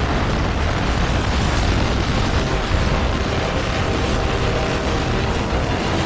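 Floodwater rushing in a fast current, a steady, deep rumbling roar.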